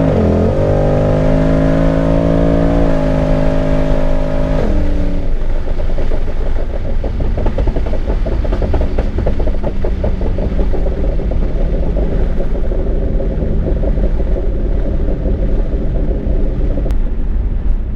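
Twin-turbo 2014 Mustang GT's Coyote 5.0 V8 under hard acceleration: the engine note climbs, drops back and climbs again about half a second in, as at an upshift of its TH400 automatic, then falls away about four and a half seconds in to a steady rumbling cruise.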